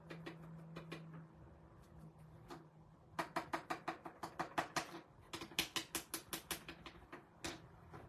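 Quick repeated dabbing taps of paint being stippled onto the painted piece, about five a second in two runs, with a few single taps before and one near the end.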